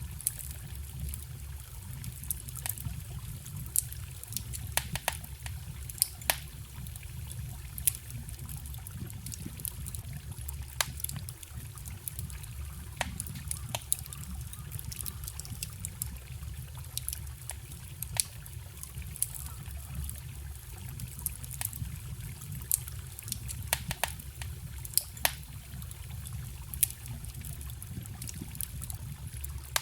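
Wood fire crackling, with sharp pops at irregular intervals several times a few seconds, over a steady trickling stream.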